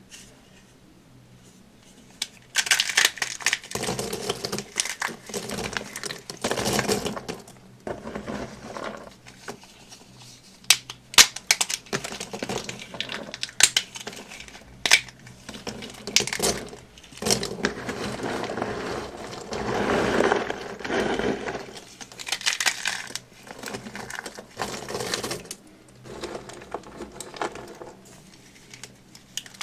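Dry soap being crushed and crumbled by hand, crunching in irregular bursts with a few sharp cracks, starting about two seconds in.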